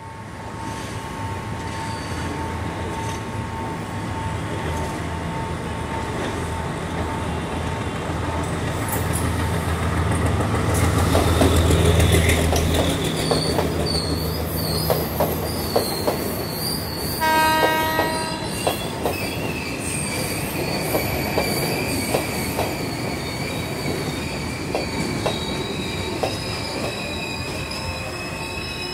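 Sri Lanka Railways Class S10 diesel multiple unit passing close by. Its engine drone builds to a peak about twelve seconds in and then drops away. The coaches follow with wheels clicking over the rail joints and a high wheel squeal, and there is a short horn blast about two-thirds of the way through.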